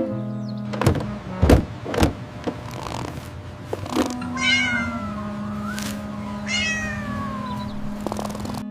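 A cat meowing twice, each meow a long call falling in pitch, after a few sharp knocks in the first half, over background music.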